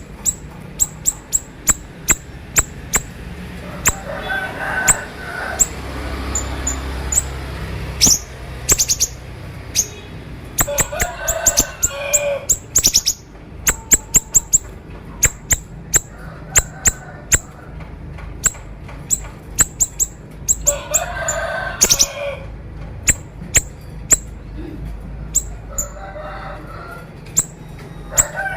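A siri-siri songbird singing a sharp, rapid song: strings of very short high-pitched chirps, often fired off in quick runs, broken by several rougher, lower buzzy phrases about a second long.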